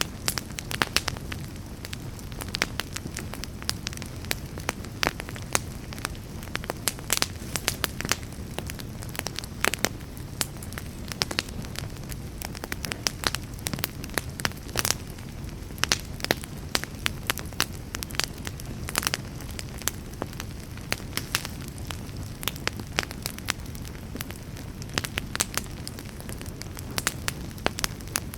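Wood fire burning in a fireplace, with a steady low rumble of flames and frequent, irregular sharp crackles and pops.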